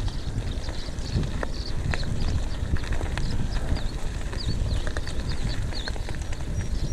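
Mountain bike riding on a dirt trail: wind rumble on the microphone and tyre noise, with scattered clicks. A bird calls in a run of short, high chirps through the middle.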